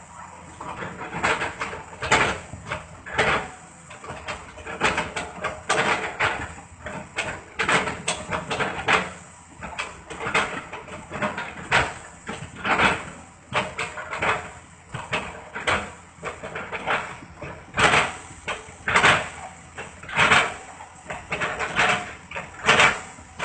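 Paint being chipped off a surface: irregular, repeated scraping and knocking strokes, about one or two a second.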